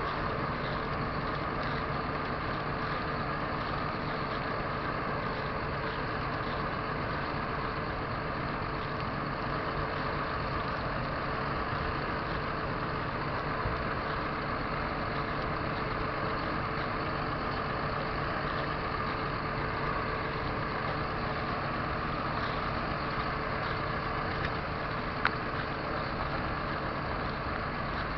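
John Deere 7930's 6.8-litre diesel engine running steadily at an even speed. A single sharp click sounds near the end.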